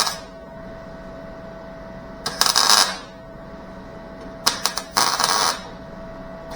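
Welding arc crackling in short bursts as tack or stitch welds go onto the sheet-metal taillight panel: two bursts, the second led by a few quick zaps.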